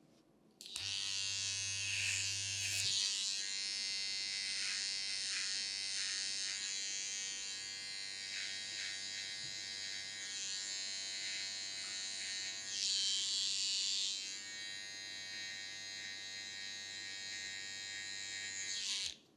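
Electric hair clippers buzzing steadily while cutting hair. They switch on under a second in and cut off suddenly near the end.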